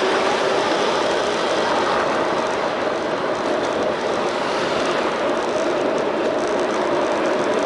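Steady rushing noise from riding a bicycle, picked up by a bike-mounted action camera: wind and tyres on the road, with no sudden sounds.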